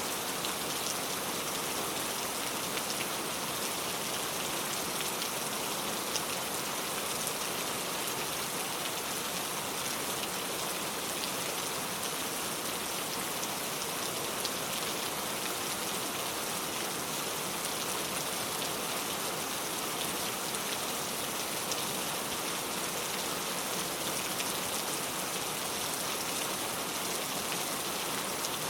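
Steady rain falling on a car, a continuous patter with scattered sharper drop ticks.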